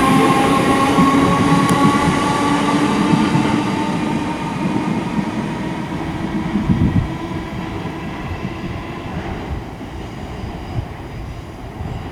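Merseyrail electric multiple unit moving away, its motor whine drifting slowly down in pitch over the rumble of the wheels and fading steadily.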